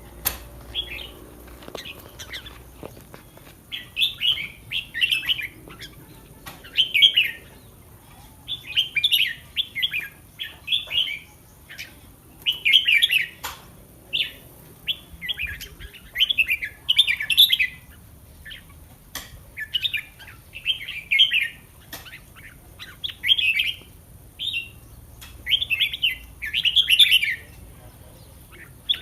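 Caged red-whiskered bulbul singing: short bright song phrases repeated about once a second, with a few sharp clicks between them.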